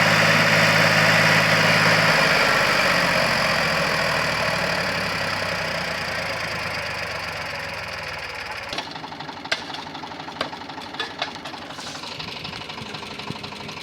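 Swaraj tractor's diesel engine running with a steady knocking note. The note shifts about two seconds in, then fades steadily and is gone after about nine seconds, leaving a few scattered clicks.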